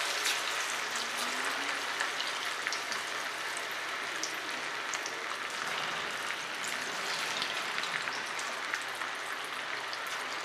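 Marinated chicken pieces frying in very hot oil: a steady sizzling hiss peppered with small crackles and pops as more pieces are dropped in.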